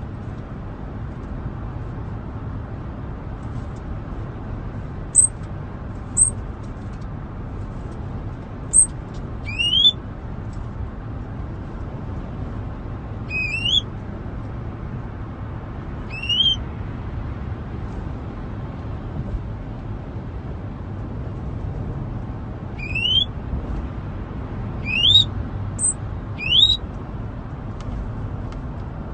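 A caged pet bird whistling: short rising whistled calls every few seconds, with brief sharp high chirps between them, several coming close together near the end. Under it runs the steady low hum of a car's cabin.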